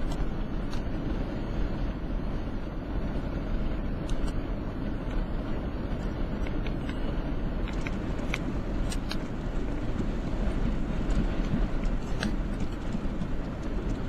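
Steady road and engine noise heard from inside a moving car, with scattered faint ticks.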